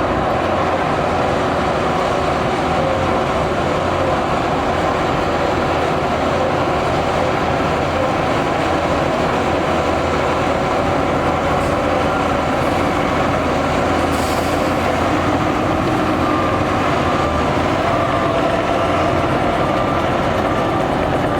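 Heavy diesel earthmoving machinery running steadily under load, a dense unbroken engine and mechanical din. A faint steady whine joins in about two-thirds of the way through.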